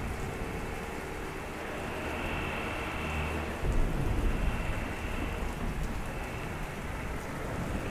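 Heavy steady rain, with a roll of thunder rumbling in suddenly about three and a half seconds in.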